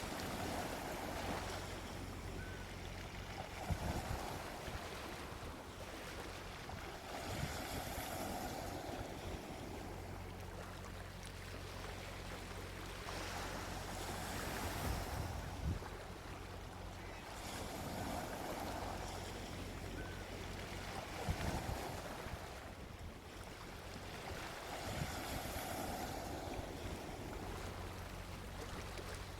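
Gentle sea waves breaking and washing up a beach, each swell rising and fading about every five to six seconds.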